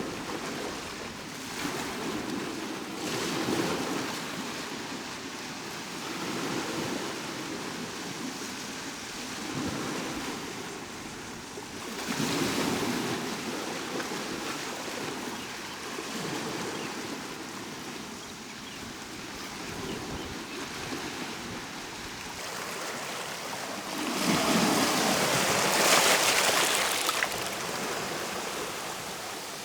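Sea waves breaking and washing up on a shore, surging every few seconds, with the largest wave breaking about 24 seconds in.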